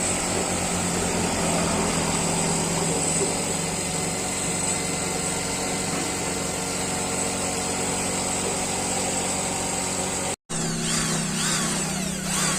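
A power tool running steadily with a high whine and a low hum. It cuts out abruptly for a moment near the end, then runs on with a shifting pitch.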